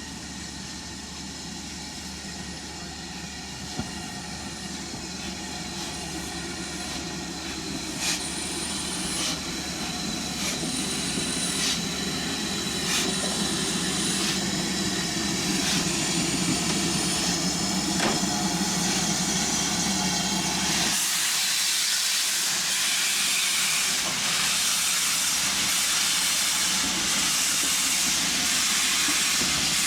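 Ivatt Class 2 2-6-2T steam tank locomotive (BR 41313) working, growing steadily louder, with scattered sharp clicks over its running. About two-thirds of the way through, a loud steady hiss of escaping steam takes over and the low rumble drops away.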